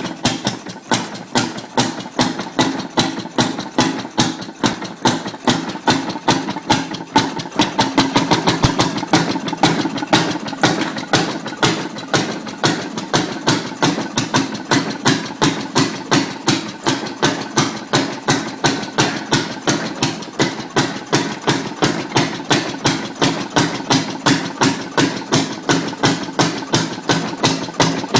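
Restored antique Uhler engine running steadily, firing in a regular beat of about three strokes a second, briefly a little quicker and louder about eight seconds in.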